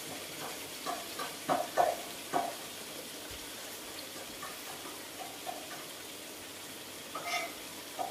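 Chili paste with prawns sizzling and simmering in a steel wok over a gas flame: a steady low hiss, with a few short pops in the first couple of seconds.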